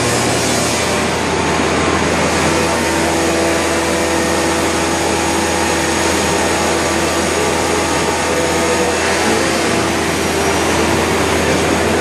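Routech Chronos NT five-axis CNC router machining wood: the spindle and its extraction run steadily under a broad hiss with a constant whine.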